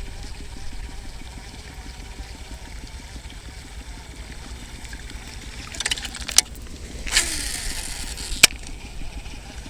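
Wind rumbling on the microphone, with a few sharp clicks about six seconds in, a brief hiss around seven seconds, and one more sharp click a little later.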